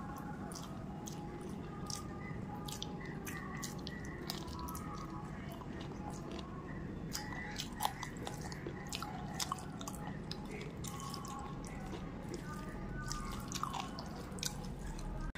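Close-miked wet chewing and lip-smacking while eating rice by hand, heard as many short, irregular clicks. Fingers squish and mix the rice with the curry.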